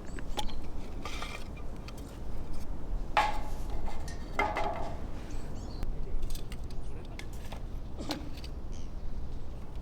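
Irregular small clinks and rattles of objects being handled, with brief scraping rustles about a second in, around three to five seconds in and near eight seconds.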